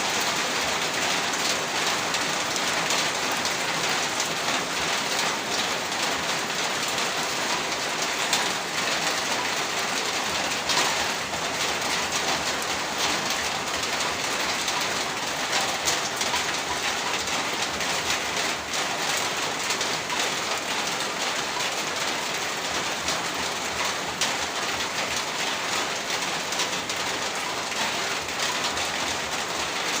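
Heavy rain falling steadily on a roof, a dense even hiss with many separate drops pattering through it.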